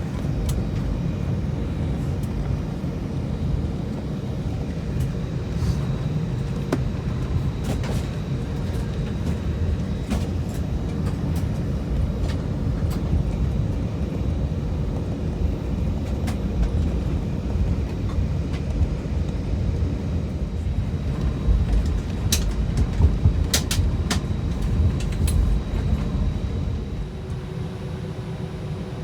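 Cabin noise inside an Airbus A320 taxiing toward takeoff: a steady low rumble from the jet engines and the rolling gear. A few sharp knocks and rattles come about three quarters of the way through, and the rumble eases off shortly before the end.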